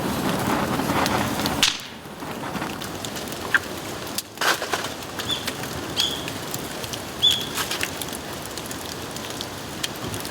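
Bamboo bonfire crackling and popping, denser at first and then, after a sudden drop, lighter crackles with a sharp pop about four and a half seconds in.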